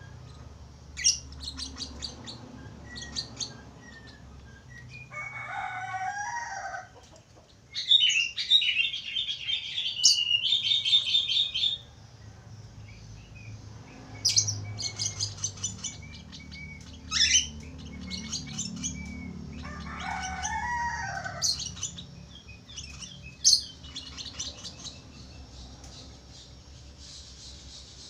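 Budgerigar warbling and chattering: sharp high chirps, quick runs of clicking notes, and twice a lower, wavering warble.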